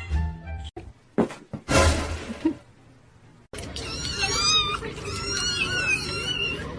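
A few short knocks and a brief loud burst, then, about halfway through, several cats meowing at once in high, overlapping calls that bend in pitch.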